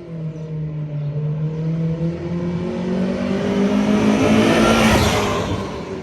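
1998 Honda Prelude's four-cylinder engine through a new aftermarket exhaust, accelerating past in a flyby. The engine note rises in pitch and grows louder to a peak about five seconds in, then falls away as the car passes.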